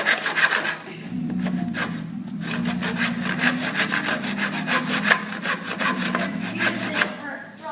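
Hand saw cutting through a wooden board in back-and-forth strokes, quick at first and then slower and more spaced after about a second. A low wavering hum runs underneath.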